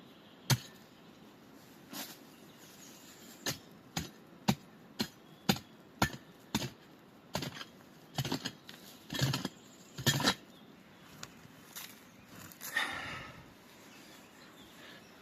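Repeated sharp strikes of a hand tool during building work, irregular at roughly one a second and some in quick pairs. Near the end comes a short harsh rasping sound with a pitched edge.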